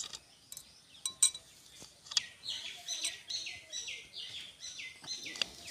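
A songbird calling in the background: a quick run of short, high chirps, each sliding downward, about three a second for about three seconds, starting about two seconds in. A few light clicks come before it.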